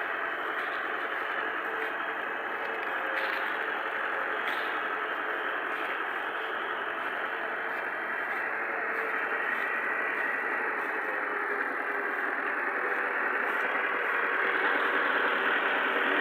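Tractor engine running steadily, getting a little louder near the end.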